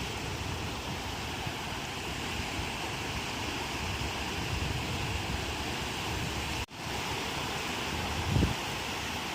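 Ocean surf washing onto the shore in a steady rush, with wind buffeting the microphone in low rumbles. The sound cuts out for an instant about two-thirds of the way through, and a low thump of wind on the microphone comes near the end.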